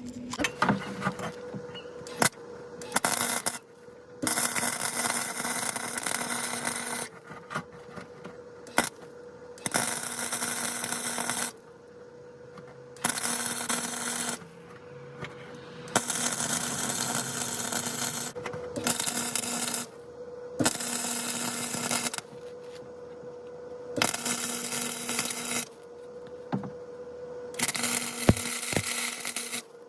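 Welder running in bursts on a car's exhaust pipe: about ten stretches of one to three seconds each, with short pauses between, laying weld around the joint. A faint steady hum sits underneath.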